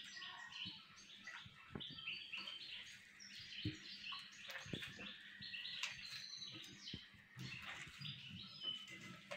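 Small birds chirping and twittering in quick, high calls throughout, with soft wet squelches of a hand mixing eggs into butter and sugar in a clay dish.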